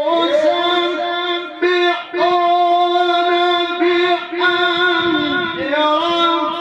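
Male Quran reciter's voice in melodic tilawah, holding long ornamented notes without distinct words, with brief breaks a little under two seconds in.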